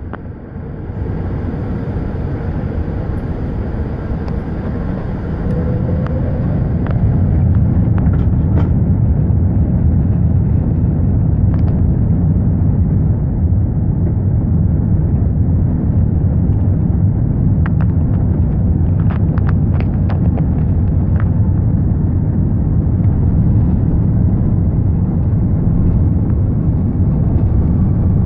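Airbus A380 airliner during take-off: a steady low rumble of engines and rolling that grows louder about seven seconds in, as thrust builds, and then holds, with a few brief rattles.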